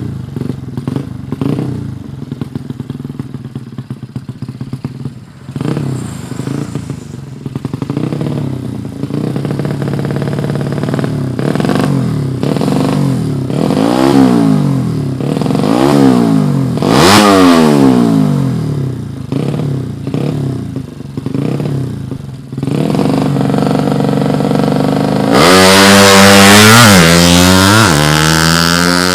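A tuned 115cc motorcycle engine idling roughly, then revved in a series of short blips that rise and fall. Near the end it is held at high revs, at its loudest.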